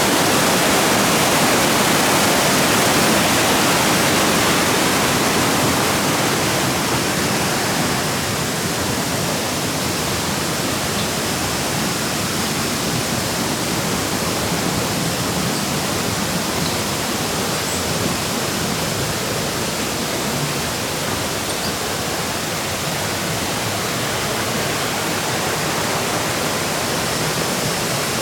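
Shallow water rushing and spilling over rocks in small cascades, a steady loud rush that eases slightly after about seven seconds.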